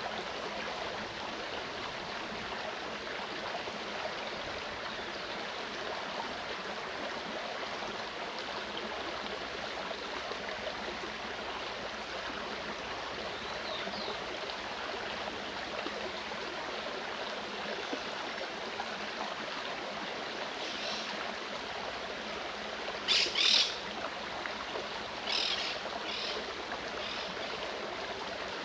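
Mountain stream running steadily. A forest bird calls late on: a faint call, then two loud short calls close together, then a few shorter calls.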